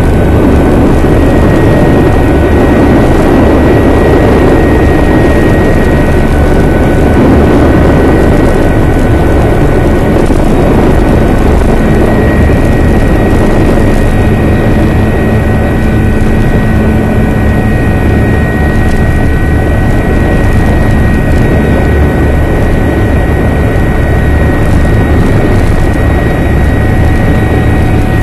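Helicopter in flight, heard from on board: very loud, steady rotor and engine noise with a constant high whine over a deep rumble.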